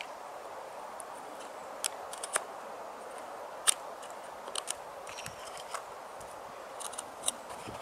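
A knife blade carving small notches into wooden pegs: scattered sharp clicks of the blade biting into the wood over a steady faint hiss.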